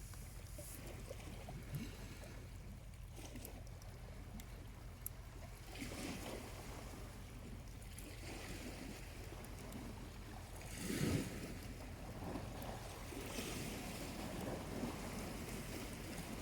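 Small waves washing gently onto the beach in soft swells, the biggest about eleven seconds in, over a steady low rumble. Faint scattered ticks of the charcoal campfire burning.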